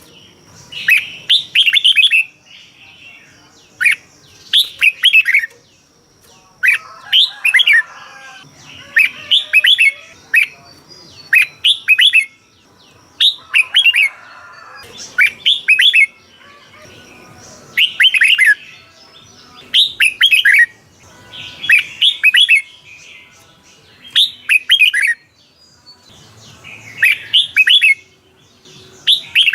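Red-whiskered bulbul singing short, rapid warbled phrases, one about every two seconds.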